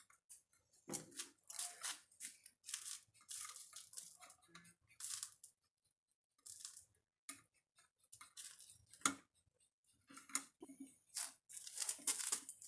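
Irregular scraping and rustling as craft materials are handled, with a few sharp clicks.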